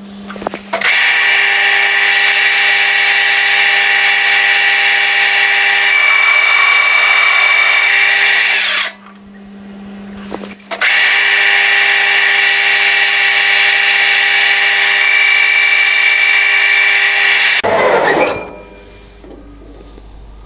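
Metal lathe taking a turning cut on steel round stock: a loud, steady cutting noise over the hum of the running machine. The cut stops for about two seconds in the middle and then resumes. Near the end the lathe shuts off.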